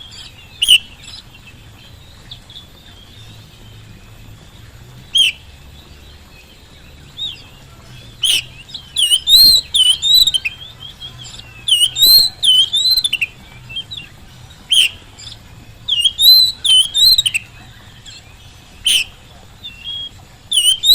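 Oriental magpie-robin (kacer) singing in bursts of quick, sharply gliding whistled notes, with gaps of a second or more between phrases. It is a lure song played to prompt other magpie-robins to answer and sing.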